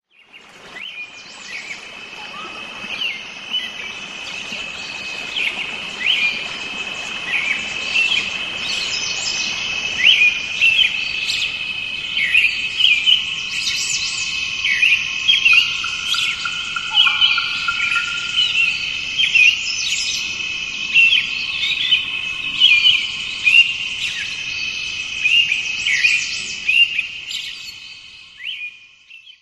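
Birds chirping and calling, many short sliding chirps over a steady high trill. It fades in at the start and fades out near the end.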